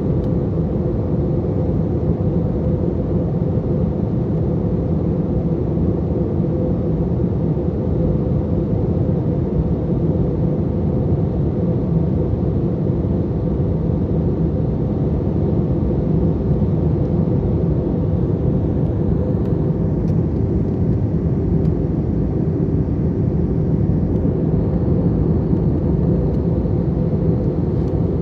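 Steady in-flight cabin noise of an Airbus A321 airliner: an even, low rumble of engines and rushing air, with a faint steady hum.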